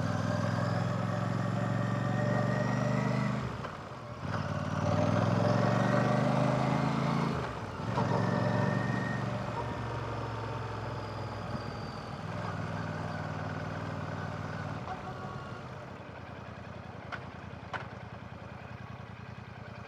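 Royal Enfield Classic 650's 648cc air/oil-cooled parallel-twin engine pulling with rising revs, broken by two quick gear changes about four and seven and a half seconds in. It then eases off and settles to a lower, steadier running, with two faint clicks near the end.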